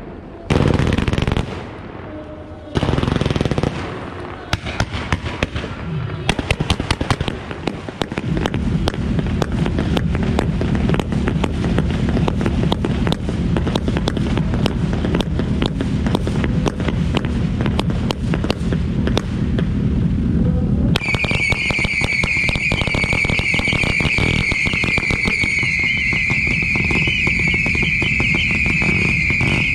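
Ground fireworks going off. In the first few seconds there are a few loud surges of fountain noise. From about six seconds in comes a dense, continuous crackle from crackling stars. About twenty seconds in, a high, wavering whistle joins the crackle.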